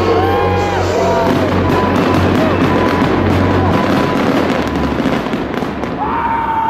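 Fireworks exploding and crackling in quick succession, densest through the middle, over loud music.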